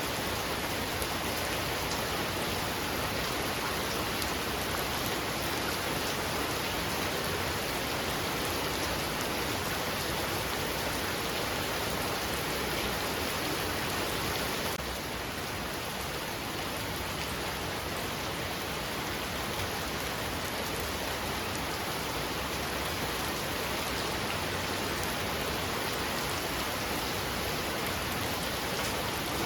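Heavy rain falling steadily, a dense, even hiss, dropping a little in level about halfway through.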